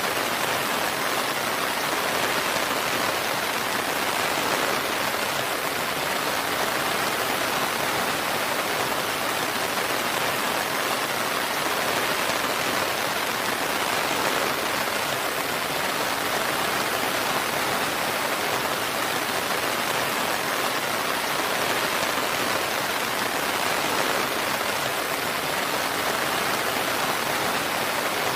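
Steady rain, an even, unbroken patter with no distinct drops or thunder.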